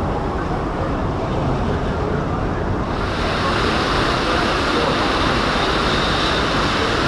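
Rushing, churning water of a river rapids ride around the raft, with wind buffeting the microphone; about three seconds in, a louder hiss of rushing or spraying water comes in and holds.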